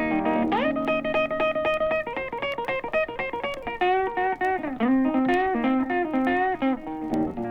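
Blues guitar break with no singing: a note bent up about half a second in and held, then a run of picked single notes with bends.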